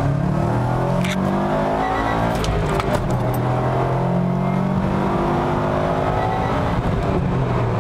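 Subaru WRX STI's turbocharged 2.5-litre flat-four running through an aftermarket catback exhaust and downpipe. The engine note rises and falls several times as the car is driven and revved.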